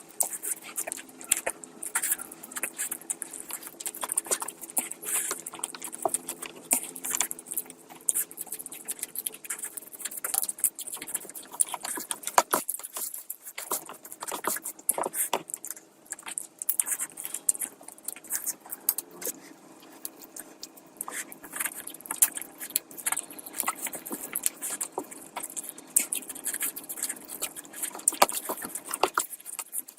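Close-miked eating sounds of a person eating curry and rice: a dense, irregular run of wet chewing, lip-smacking and crackling mouth clicks.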